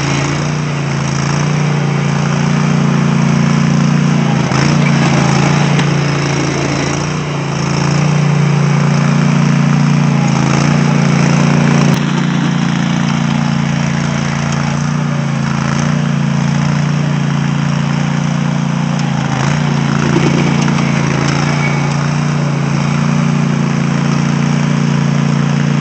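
Cub Cadet lawn tractor engine running steadily while it pushes a front plow blade through snow.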